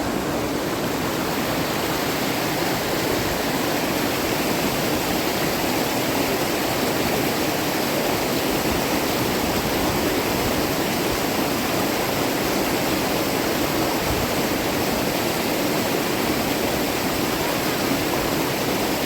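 River water rushing steadily, with an unbroken, even sound.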